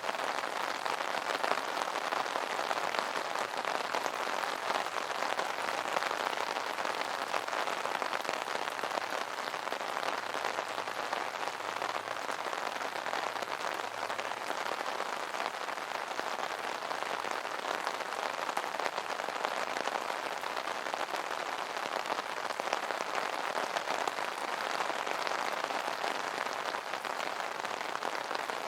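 Steady rain pattering on an umbrella canopy, a dense even patter of drops.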